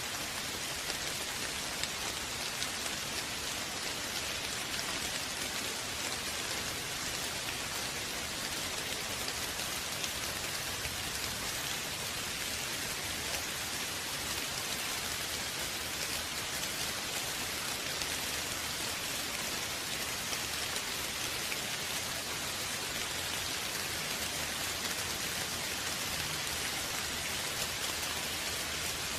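Steady rain falling, an even hiss of many drops with no thunder or other events.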